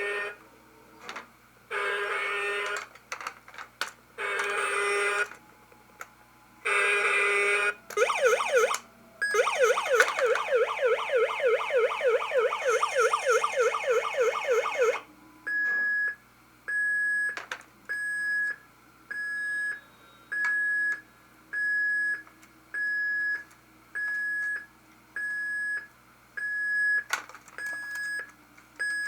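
Electronic sound effects from a battery-powered 1996 Hess toy fire truck. There are several short tone blasts, then a fast yelping siren for about six seconds, then a single high beep that repeats about once a second.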